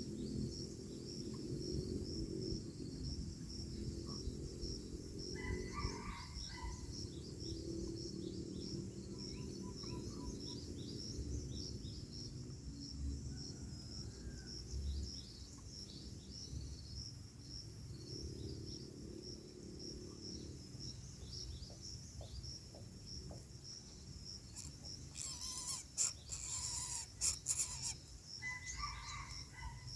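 Insects trilling steadily on one high, fast-pulsing note, over a low outdoor rumble. Short bird chirps come about six seconds in and again near the end, and a run of sharp rustling clicks comes shortly before the end.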